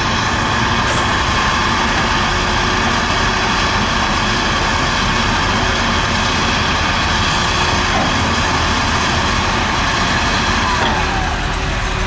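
Heavy excavator running steadily, a continuous dense engine and machinery noise.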